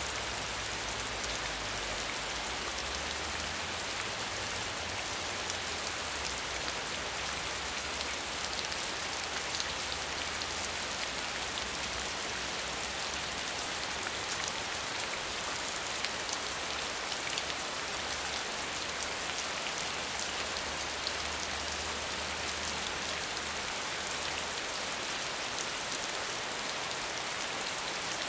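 Steady medium rainfall: an even hiss of rain with the patter of individual drops on a surface.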